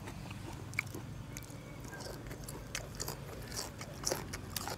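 A person biting and chewing crisp raw vegetables, with irregular crunches and wet mouth clicks.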